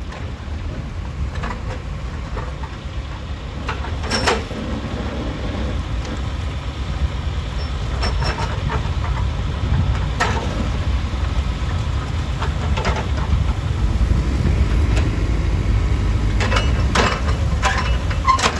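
Heavy diesel machinery running with a steady low rumble, with sharp knocks of rock or metal every few seconds and a cluster of them near the end.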